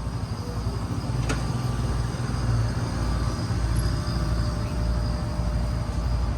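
Outdoor air-conditioner condensing units running with a steady low mechanical hum. A single sharp click comes about a second in.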